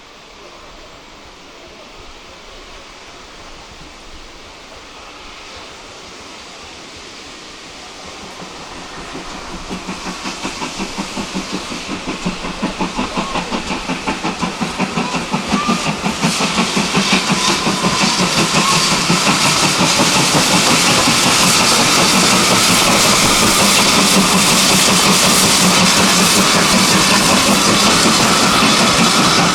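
A train on a heritage railway approaching and drawing close. It grows steadily louder from about a quarter of the way in, with a fast regular beat and hiss.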